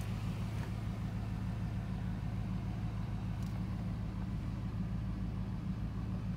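The 1999 Camaro SS's 5.7-litre LS1 V8 idling steadily, heard from inside the cabin as a low, even hum.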